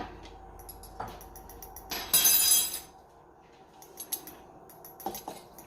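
Something poured into a cup: a short, loud hiss about two seconds in, among light clinks and taps of glass and utensils.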